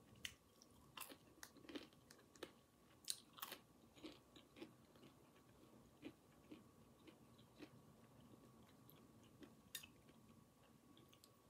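Quiet, close-up chewing of homemade fries, with irregular crisp crunches and mouth noises. They come thick in the first half and grow sparser later on.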